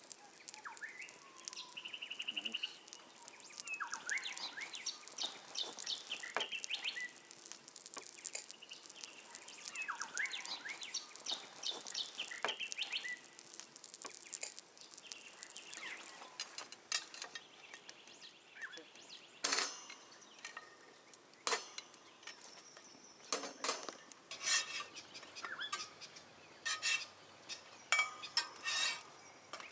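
Birds chirping and calling with short rising and falling notes. From about halfway, a string of sharp clinks and taps from cutlery and dishes being handled takes over.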